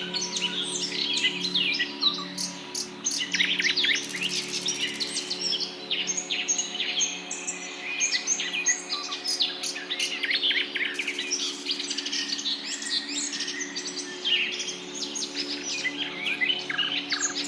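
Many birds chirping and calling at once in a dense morning chorus of short, high chirps, over a faint steady low hum.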